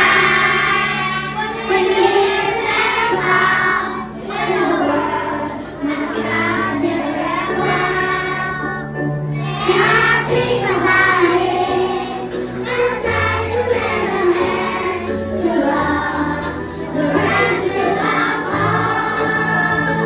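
Children's choir singing over instrumental accompaniment with a steady bass line.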